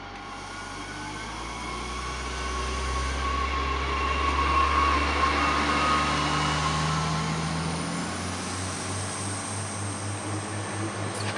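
SNCF TER AGC bi-mode multiple unit (B 82500 series) running past along the platform: a low engine note and wheel-on-rail noise grow louder as the cab comes by. About eight seconds in, a pulsing engine throb takes over as the carriages pass, and a sharp clack comes at the very end.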